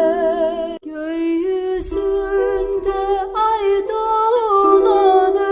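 Music: a singer holding long, wavering notes in a song, with a short break just under a second in.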